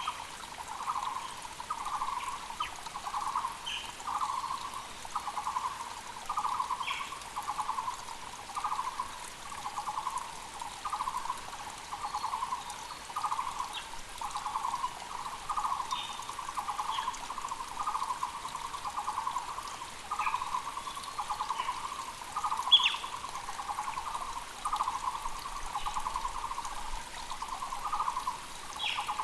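Taiwan barbet (Muller's barbet) calling without pause, a low rolling note repeated about one and a half times a second. Short, higher calls from other birds, one sharp and loud past the middle, sound over the faint rush of a mountain creek.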